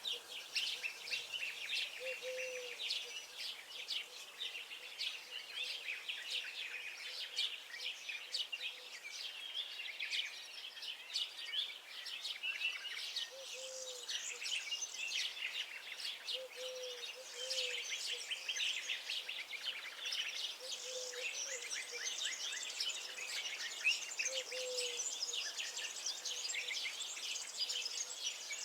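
A dense chorus of small songbirds singing and chirping, fast high notes overlapping throughout. A short, low call sounds again every few seconds beneath them.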